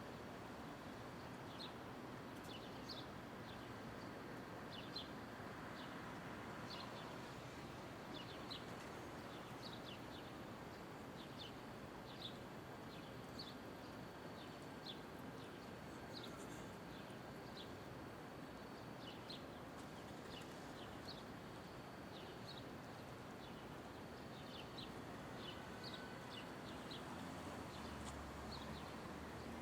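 Steady downtown street hum with a string of short, high chirps repeating every second or so throughout.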